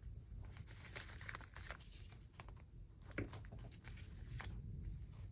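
Paper being handled: soft rustling and crinkling with many small ticks and taps as collage pieces are moved and placed.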